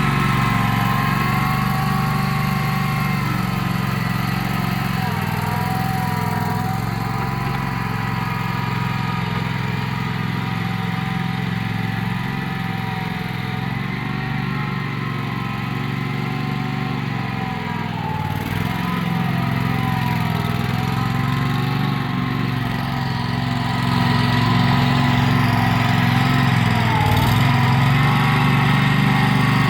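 Predator 670 V-twin gasoline engine in a repowered mini skid steer running steadily, its pitch dipping briefly three times. It gets a little louder about three-quarters of the way through.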